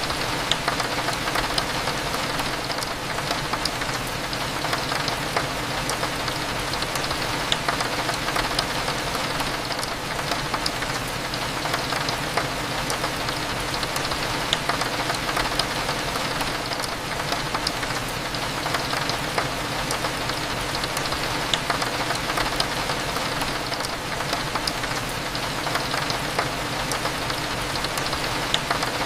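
Steady rain falling against a window: a continuous hiss dotted with many small, sharp drop ticks, over a low, steady background hum.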